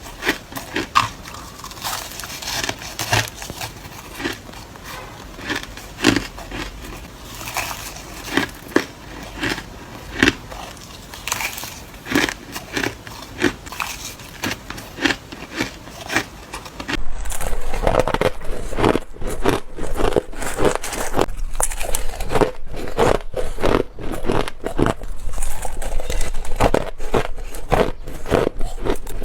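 Ice being bitten and crunched close to the microphone: a run of sharp, crisp bites. About halfway through the crunching gets louder and denser, with bites following one another quickly.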